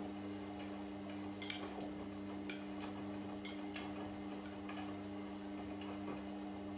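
Washing machine running during a wash: a steady motor hum, with irregular light clicks about once a second as the laundry turns in the drum.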